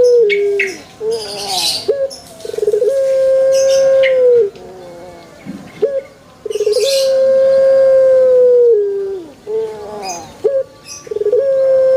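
Male Barbary dove (burung puter) cooing: each call is a short rolled start followed by a long level note held for about two seconds that drops at the end, repeating about every four seconds. Brief hissy higher sounds fall between the calls.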